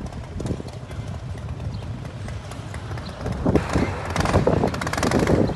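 Harley-Davidson V-twin engine idling with its uneven, loping rhythm, growing louder about three and a half seconds in.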